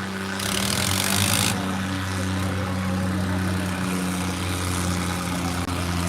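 A tractor engine running steadily at an even pitch.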